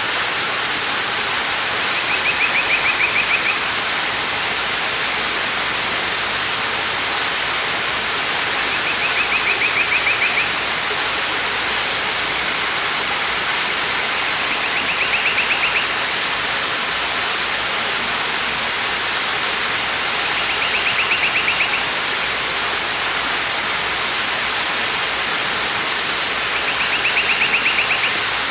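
Waterfall rushing steadily. Over it, a bird gives a short rapid trill five times, about every six seconds.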